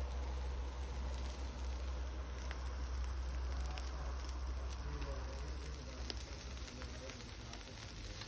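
Wood fire crackling, with scattered sharp pops over a steady hiss and a low rumble.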